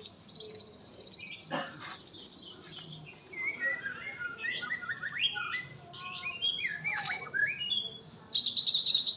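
Bird song: a fast, buzzy trill, then a run of varied short whistles and chirps that glide up and down, and the buzzy trill starting again near the end.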